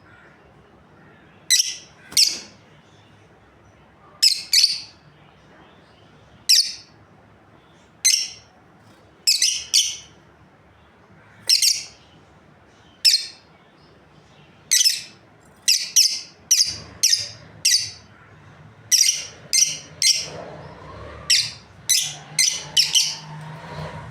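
Lovebirds calling: short, sharp, high-pitched chirps every second or two, often in quick pairs, coming faster and closer together in the last third.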